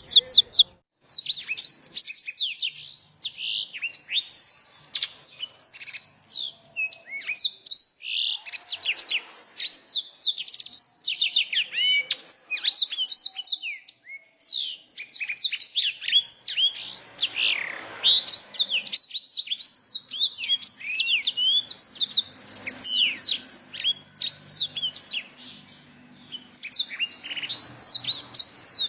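A small songbird singing a fast, continuous twittering song of rapid, high whistled sweeps, with a brief break about a second in.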